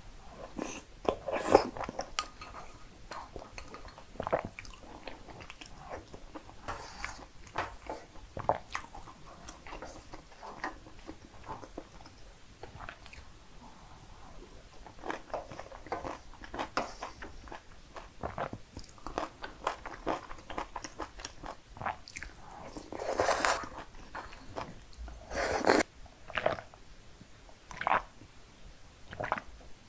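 Close-miked eating sounds: chewing and wet mouth smacks on mouthfuls of cream pasta, in short irregular bursts with soft clicks. Near the end come a few short gulps as a drink is swallowed.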